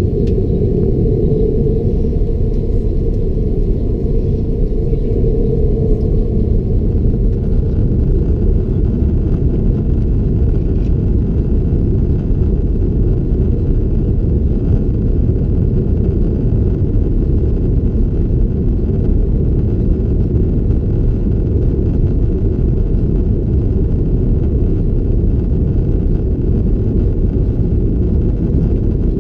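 Airbus A330-200 cabin noise: a steady low rumble of the jet engines and airflow, heard from inside the passenger cabin.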